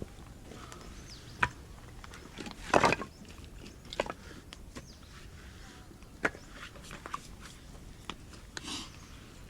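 Sparse sharp wooden clicks and knocks, with a louder short cluster about three seconds in.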